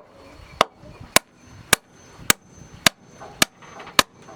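Steady, rhythmic sharp blows of a tool striking wood: seven strikes, a little under two a second.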